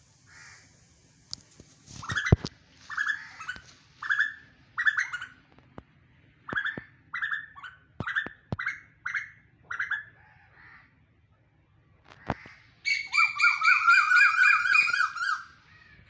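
Birds calling in trees: a run of about a dozen short, harsh calls, each sliding down in pitch, coming roughly two a second, then near the end a rapid chattering rattle held for nearly three seconds.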